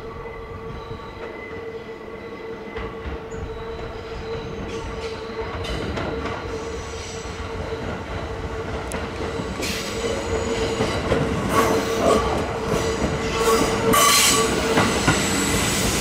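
Kintetsu 50000 series Shimakaze electric train approaching over curved track and points, growing steadily louder. Its wheels squeal with a steady high tone on the curve. From about ten seconds in, clacks from the wheels crossing the points and rail joints come thicker.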